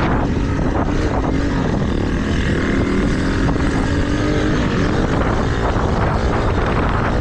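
Small mini dirt bike engine running while being ridden, its pitch rising and falling with the throttle, with wind buffeting the microphone.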